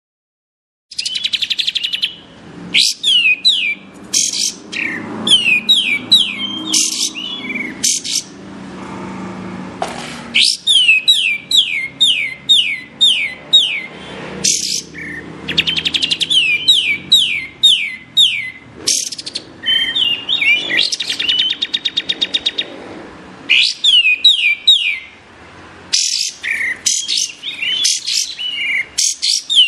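Kapas tembak bird singing: repeated bursts of rapid, sharp, downward-sliding whistled notes, several a second, starting about a second in.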